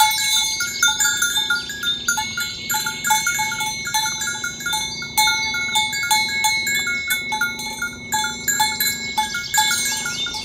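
Bells hung on walking cattle clinking irregularly, many short ringing notes at a few fixed pitches overlapping one another.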